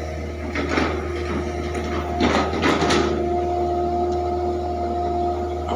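Excavator running with a steady low engine hum and a high, steady hydraulic whine. Two short bursts of noise come over it, one about half a second in and a longer one of several quick strokes around two to three seconds in.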